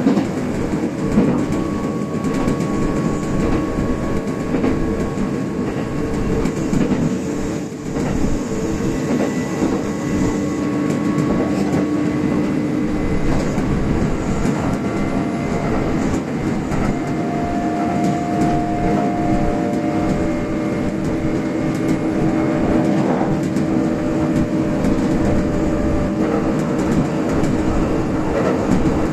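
Kintetsu standard-gauge express train running at speed, heard from inside the front car: a steady rumble of wheels on rail with light clicks over the joints and several steady hum tones from the drive.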